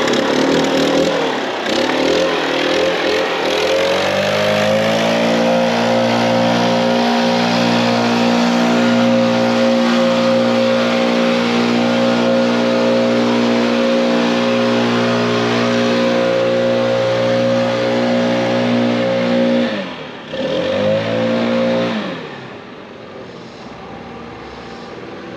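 Stihl BR800 backpack leaf blower's two-stroke engine running after starting. The pitch rises over the first few seconds to steady full throttle and holds there, drops suddenly when the throttle is released near the end, revs up briefly once more, then settles to a quieter idle.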